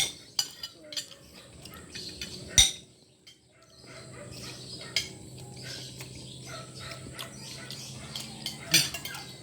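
Cutlery clinking against a plate as a meal is eaten: a handful of sharp separate clinks, the loudest about two and a half seconds in.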